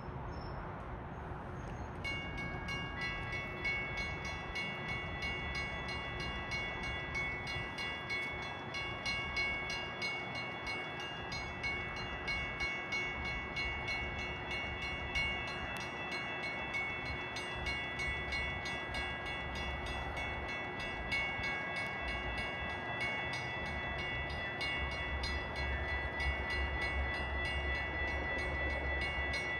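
Railroad grade-crossing warning bells start ringing about two seconds in and keep up a fast, even ringing, while the low rumble of an approaching train that will not stop at the station grows in the last few seconds.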